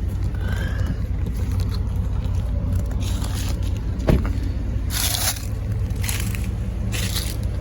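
Steady low rumble of an idling pickup truck engine, the 2003 Ram 2500's 5.7-litre gas V8, with a single thump about four seconds in and several short scraping hisses in the second half.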